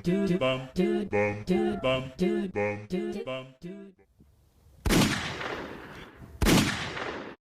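A short tune of evenly spaced notes, about three a second, stops. Then come two loud gunshots about a second and a half apart, each with a long echoing tail, and the sound cuts off abruptly near the end.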